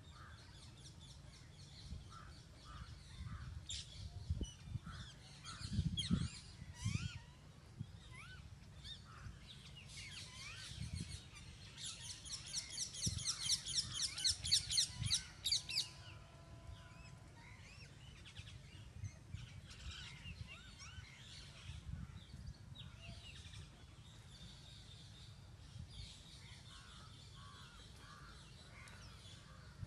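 Several birds chirping and calling, with a loud burst of rapid repeated chirps lasting about four seconds near the middle. A low rumble with a few dull thumps runs underneath.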